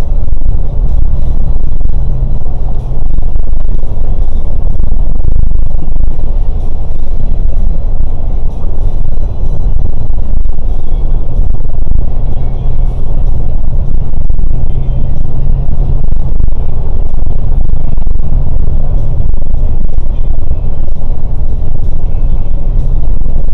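Scania K410 coach under way: a loud, steady low rumble of engine and road noise.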